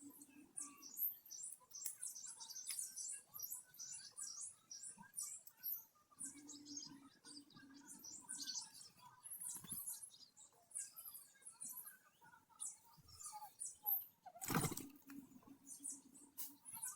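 Small birds chirping and tweeting in a dense chorus of short, very high notes, with a low hum that comes and goes. A sharp knock about two-thirds of the way through is the loudest sound.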